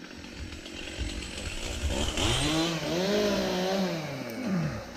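Two-stroke chainsaw idling, then revved up about two seconds in, held high for a couple of seconds, and let fall back to idle near the end.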